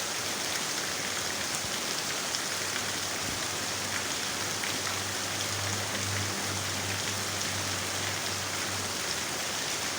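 Heavy rain falling steadily, a dense even hiss with scattered drop ticks. A faint low hum runs under it from a few seconds in until near the end.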